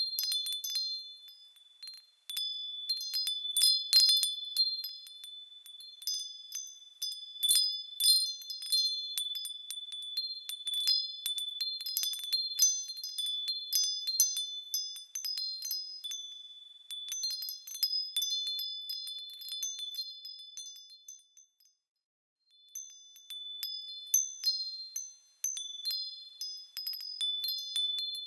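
Small high-pitched metal bells or chimes swinging and striking one another: a dense tinkling of many light strikes, each leaving a high ringing tone. The ringing dies away briefly about 21 seconds in, then starts again.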